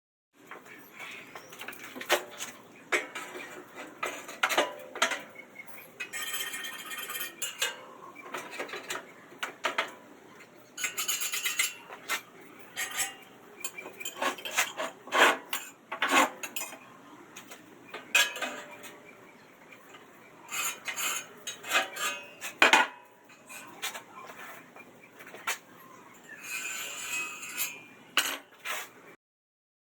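Pieces of steel being handled on a metal surface: irregular clanks, knocks and clinks, with three short ringing scrapes of metal on metal.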